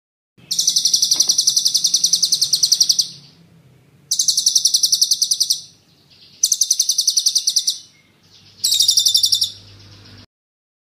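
A songbird singing four bursts of rapid, sharp, high-pitched rolling trills, each lasting one to two and a half seconds with short gaps between. This is the fast 'ngeroll' rapid-fire song used as a masteran, a tutor recording for competition songbirds.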